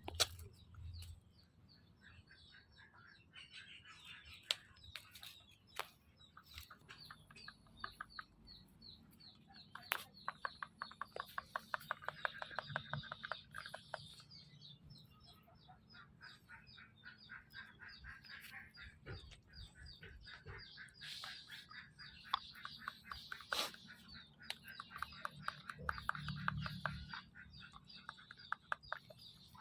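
Small animal calls: rapid trains of short, high chirps or peeps, repeating throughout.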